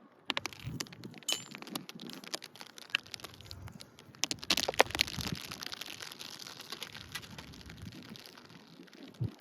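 Roofing tools tapping and scraping on asphalt shingles: irregular sharp clicks and knocks with a gritty crackling, the loudest knock about halfway through.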